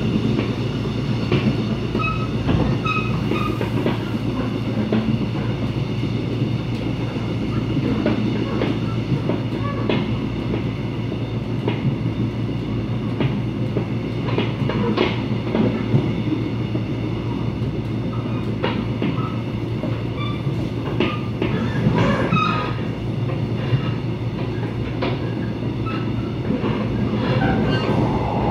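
Mugunghwa-ho passenger train running at speed, heard from on board: a steady rumble of wheels on rail with scattered clicks and knocks, the clickety-clack of the wheels passing over track joints.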